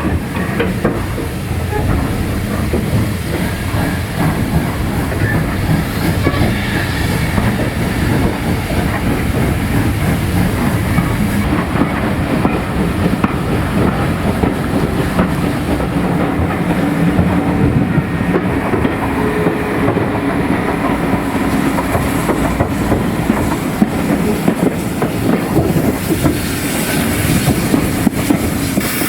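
Train running on the rails, with a steady rumble and wheels clattering over the rail joints.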